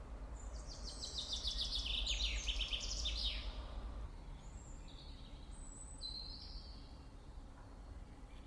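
Songbird singing: a fast run of repeated high notes that steps down in pitch for about three seconds, followed by a few short, scattered chirps. A steady low rumble of outdoor background noise runs underneath.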